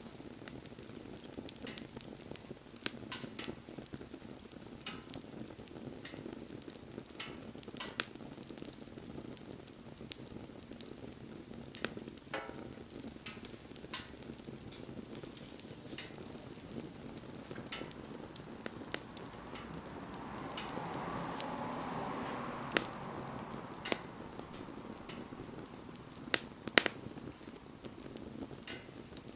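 Wood fire crackling: scattered sharp pops and snaps over a steady low rush of burning. About twenty seconds in, a hissing swell rises for a few seconds and dies back.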